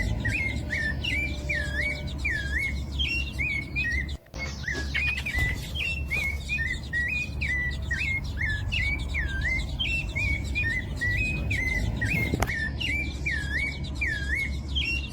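A songbird calling: a fast, unbroken run of short chirping whistles, a few notes each second, over a low rumble, with a brief dropout about four seconds in.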